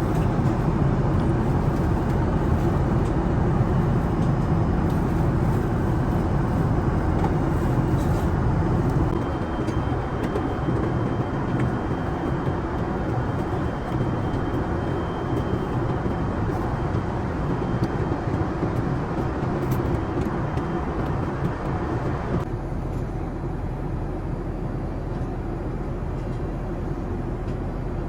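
Steady rushing cabin noise of a jet airliner in flight, with a low hum under it. The noise shifts abruptly in character twice, about a third of the way in and again near the end.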